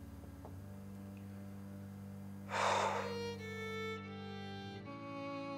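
Sad background score of sustained bowed strings, violin and cello, holding long notes that change a few times. A short hiss, likely a breath, comes about two and a half seconds in and is the loudest moment.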